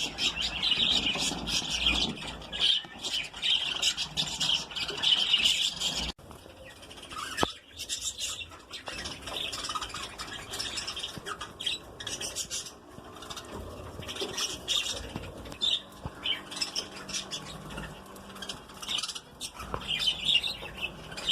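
A colony of lovebirds chattering and squawking, many shrill calls overlapping without pause. The calls are loudest in the first six seconds, drop suddenly, then carry on a little softer.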